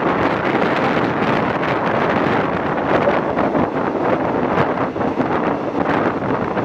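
Steady wind rushing over the microphone, mixed with the running noise of a moving passenger train, heard from an open carriage door.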